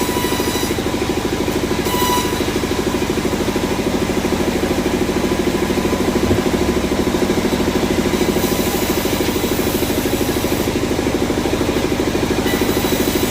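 An engine running steadily with a fast, even pulse, typical of the engine that drives the sawmill's machinery.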